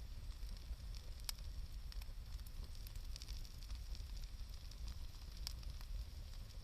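Wood campfire burning, crackling with scattered sharp pops over a steady low rumble; the loudest pops come about a second in and near the end.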